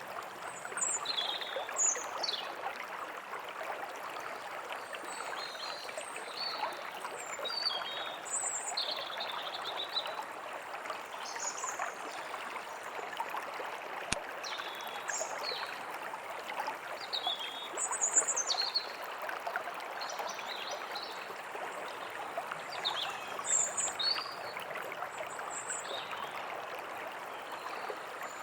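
Forest stream running steadily, with many small birds chirping and whistling over it throughout.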